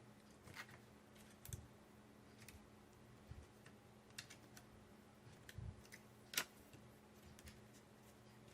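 Near silence with faint, scattered light clicks and taps of craft pieces being handled and pressed down onto the decoration, one sharper click about six seconds in. A faint steady hum runs underneath.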